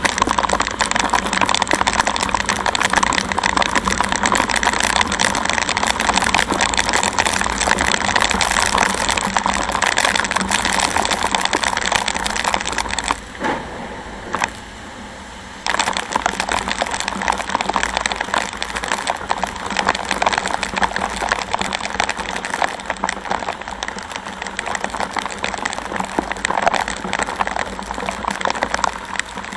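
Dense, steady rush of heavy rain and wind noise heard from a moving motorcycle, with the low drone of the ride underneath. A little past the middle it drops away sharply for about two seconds, then returns just as loud.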